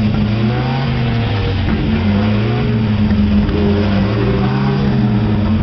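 Alpine A110's rear-mounted Renault four-cylinder engine running near idle, the revs swelling and falling gently several times as the throttle is worked.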